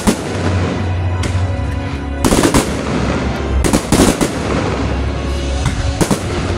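Aerial fireworks bursting in a string of sharp bangs, with quick rapid-fire clusters about two and a half and four seconds in. Music plays steadily underneath.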